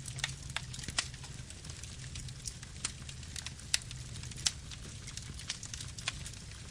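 Wood fire burning: irregular sharp crackles and pops, a few a second, over a low steady rumble of the flames.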